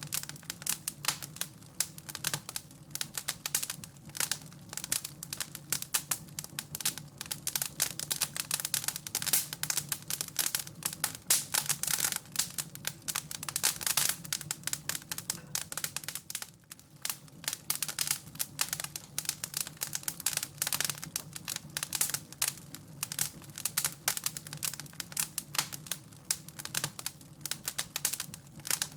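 Wood fire crackling in a fireplace: dense, irregular pops and snaps over a low steady hum.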